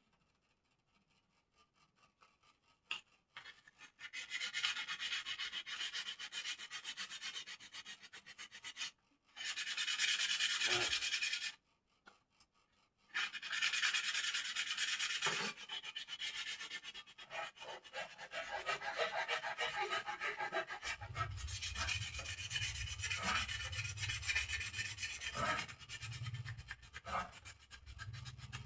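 Wooden birdcage parts being sanded smooth: long stretches of scratchy rubbing on wood, broken by two short pauses, with a low hum joining about two-thirds of the way in.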